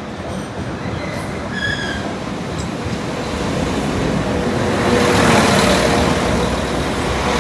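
Northern Class 195 diesel multiple unit approaching and passing close by. The noise of its engines and wheels on the rails swells to a peak about five seconds in, with a steady hum under it.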